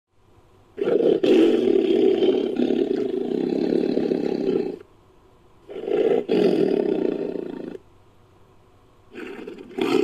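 Tiger roaring in an edited sound effect built from a recorded tiger: three long roars, the first lasting about four seconds, the second about two seconds, and a third beginning near the end.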